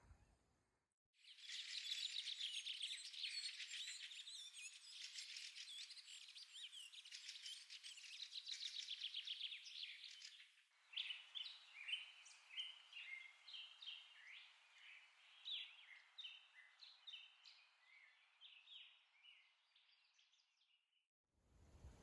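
Birds chirping and singing. For about ten seconds a dense chorus of many high chirps plays, then it cuts off abruptly. A sparser song of separate high notes and short trills follows, fading out near the end.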